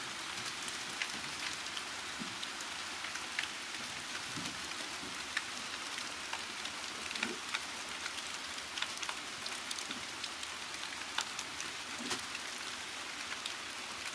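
Steady rain with many separate drops striking close by, heard as sharp ticks over an even hiss.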